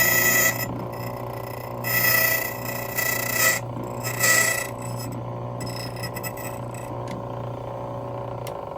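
Motorized key duplicating machine cutting a Ford five-pin ignition key blank: a steady motor hum with three bouts of rasping as the cutter bites into the brass, the longest lasting about a second and a half. The motor winds down near the end.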